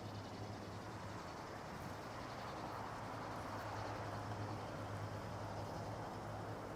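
Steady low rumble and hiss with a constant low hum, no distinct events.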